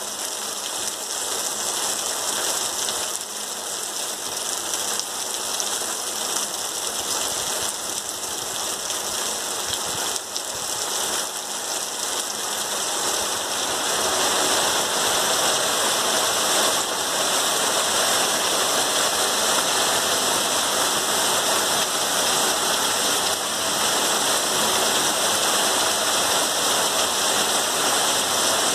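Heavy rain pouring steadily on open ground and trees, a dense even hiss that grows a little louder about halfway through.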